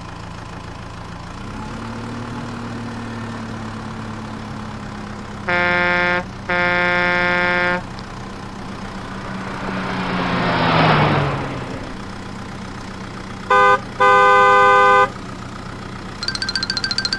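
A vehicle engine running steadily, honking its horn twice (a short toot then a longer one) twice over, with a whoosh in the middle as its engine pitch drops like a vehicle passing by. A rapid pulsing ring starts near the end.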